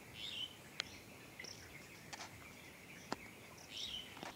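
Faint outdoor background with a few short bird chirps, one soon after the start and one near the end, and a couple of sharp clicks in between.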